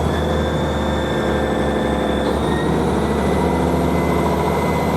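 Class 158 diesel multiple unit pulling away, its underfloor diesel engines working under load with a steady low drone. Thin high whines sit over it, one rising slowly from about halfway.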